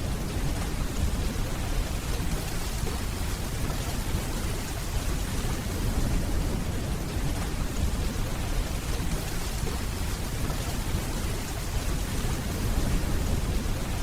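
Steady rainfall, with a deep low rumble of distant thunder underneath.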